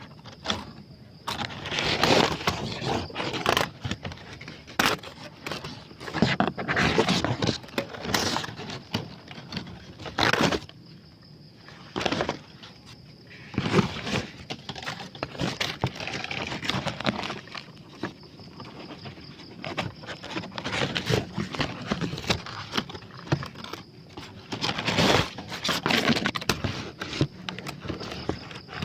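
Dry leaves and twigs rustling and snapping in irregular bursts as someone pushes through undergrowth, over a steady high tone.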